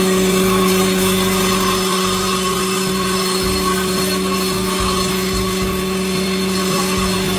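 Electric motor of a combination planer and circular saw machine running steadily with a constant hum.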